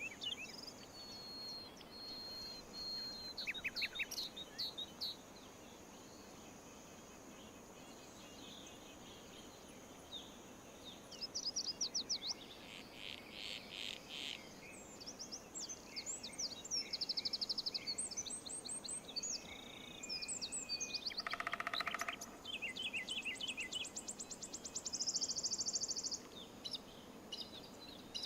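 Small birds singing and calling over one another in quick chirps and trills, with a steady high-pitched tone running underneath for much of the first two-thirds. About three-quarters of the way through there is one short, lower call.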